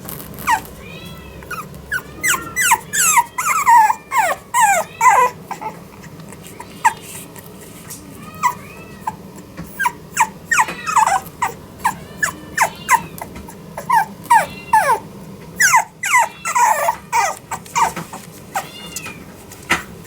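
French bulldog puppy whining and yipping: many short, high cries that fall or arch in pitch, coming in flurries with brief pauses between them.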